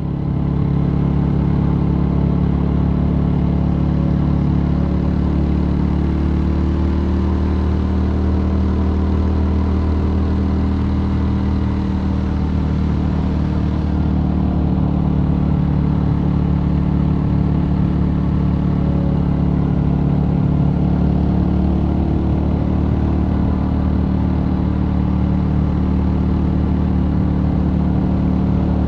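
Mutt Akita 250 single-cylinder motorcycle engine running steadily while riding, fading in at the start, with a brief dip in engine note partway through before it picks up again.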